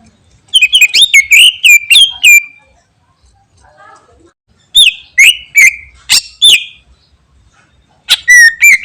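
Cucak ijo (green leafbird) singing loudly in three bursts of rapid, sharp whistled notes that sweep up and down, each burst about two seconds long with short pauses between.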